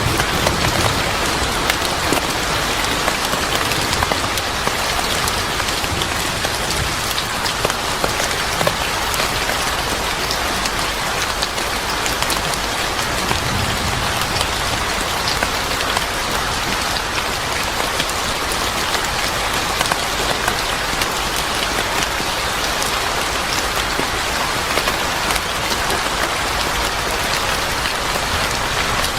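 Steady rain falling on a surface, an even hiss dotted with fine drop ticks.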